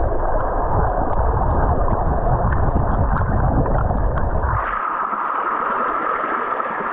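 Muffled underwater rush of creek water beneath a small waterfall, with small clicks and knocks of gravel and stones being moved. About two-thirds in, it switches abruptly to the brighter open-air rush of the falling water.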